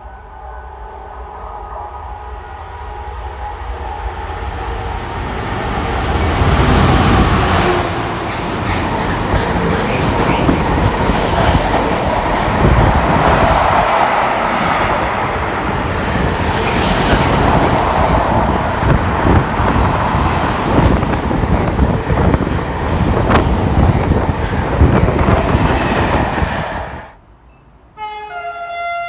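A freight train passing at speed, a continuous heavy rumble and clatter of wheels and wagons that builds over the first few seconds and stays loud for about twenty seconds before cutting off abruptly. Just before the end a train horn starts sounding.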